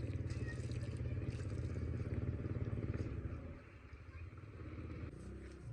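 A motor engine running with a steady, rapidly pulsing low rumble. It drops away about three and a half seconds in and picks up again near the end.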